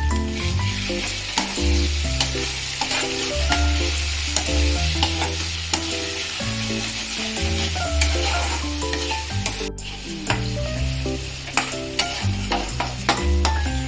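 Masala paste sizzling as it fries in oil in a pan, stirred with a spoon that clicks and scrapes against the pan many times; the oil separating from the paste shows it is nearly cooked through. Background music with a steady bass line plays over it.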